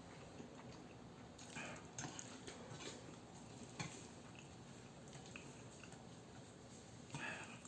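A person quietly eating Chapagetti instant black-bean noodles: soft chewing with a few short, wet mouth sounds and small clicks, the most noticeable near the end.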